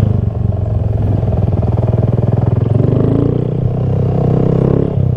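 Honda Grom's small single-cylinder four-stroke engine running at low speed with a steady throbbing note. A higher, wavering engine note joins in for a couple of seconds past the middle.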